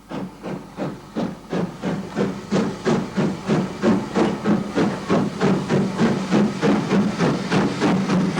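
Great Eastern class J15 0-6-0 steam locomotive working a train, its exhaust chuffing in even beats, about three a second, over a steady low tone.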